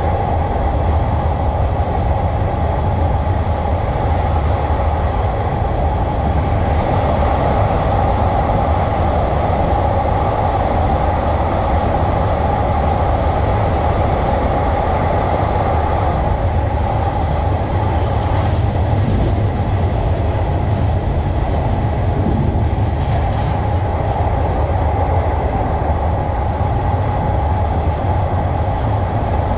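Passenger train running steadily, heard from aboard a coach: a continuous low rumble of wheels on rail with a steady mid-pitched hum over it.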